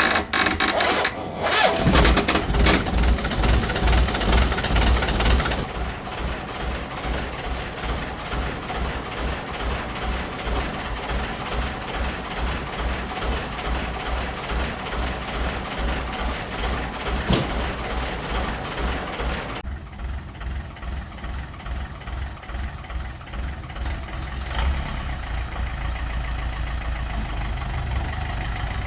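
An old car's engine cranks and catches about two seconds in, runs fast for a few seconds, then settles into a steady idle with a pulsing low rumble.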